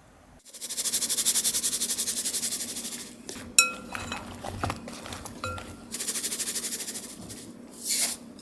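Kitchen utensil working fast and evenly against a bowl, in two stretches of rapid rhythmic scraping, with two ringing clinks of the bowl between them.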